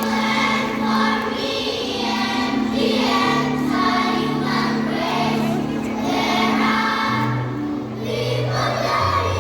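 Children's choir singing, the voices moving in phrases over steady held low accompaniment notes.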